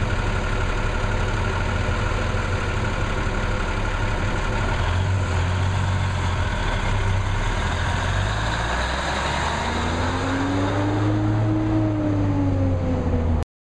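M817 5-ton military dump truck's Cummins six-cylinder diesel running at a steady low note, its pitch shifting a little about a third of the way in and again past halfway. In the last few seconds a whine rises and then falls over it, and the sound cuts off abruptly near the end.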